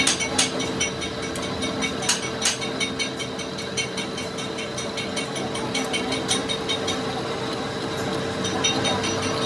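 A workshop machine running with a steady hum and rapid, regular clicking, with a few sharper knocks in the first three seconds.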